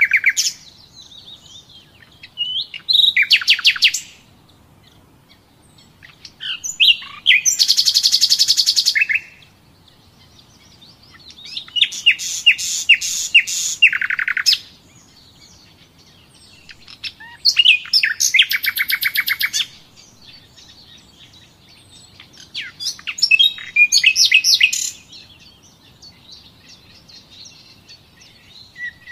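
A songbird singing: phrases of fast trills and rapidly repeated high notes, each lasting two or three seconds, with short pauses between them.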